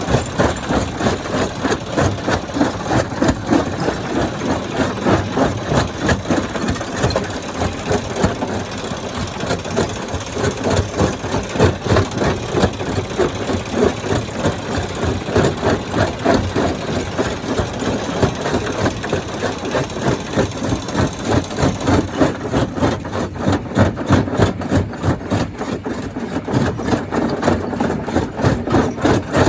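Stone crusher plant running: a steady mechanical drone with a fast, even pulse.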